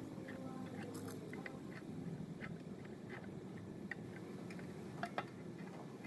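Irregular light clicks and taps, a few a second, over a low steady background hum; two sharper clicks come about five seconds in.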